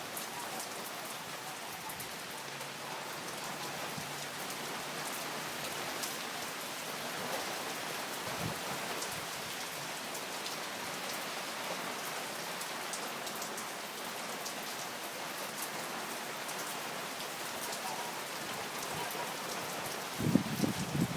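Steady rain falling and pattering on surfaces, with fine drop ticks through it. Near the end, low gusts of wind begin buffeting the microphone.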